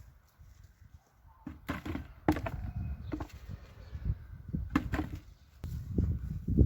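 Irregular thumps and knocks of potatoes being dug up by hand or with a tool from hard soil, several strokes spaced about a second apart, the loudest near the end.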